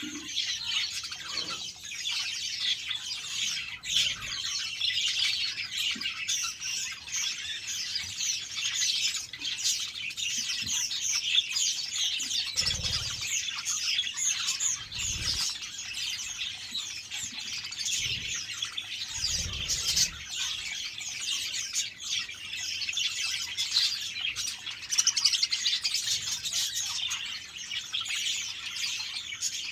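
A flock of budgerigars chirping and chattering continuously, many short overlapping calls at once. A few soft low thumps come in the middle.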